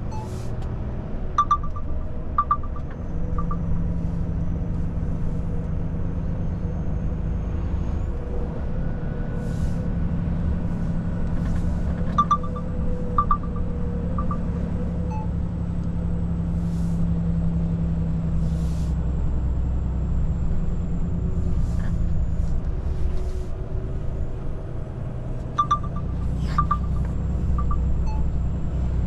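Volvo FH truck's diesel engine and tyres on the road, heard from inside the cab as a steady low drone. Three short runs of light ticking come near the start, in the middle and near the end.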